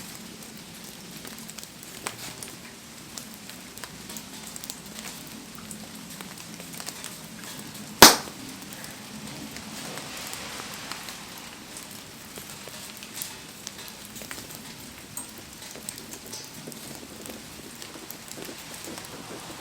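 Wood bonfire crackling in heavy rain: steady rain patter with scattered small pops from the fire, and one loud sharp crack about eight seconds in.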